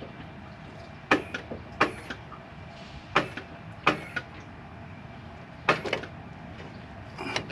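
Hand tools working on a motorcycle's rear shock mount: about six short, sharp clicks and knocks, spaced a second or so apart, as the new shock is fastened in place.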